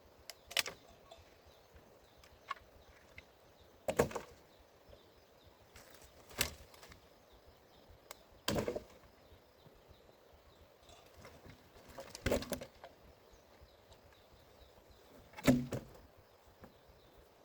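Six separate heavy knocks, each a few seconds apart, with a faint background between them.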